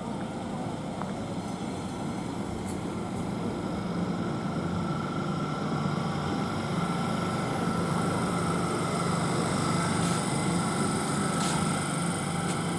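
Electric multiple-unit train at the station, a steady hum with a high, even whine that slowly grows louder, with a few faint clicks.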